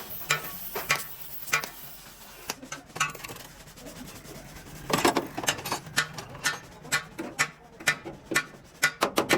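Hand-tool work on metal: irregular sharp taps and clicks, turning into a fast, even run of clicks near the end.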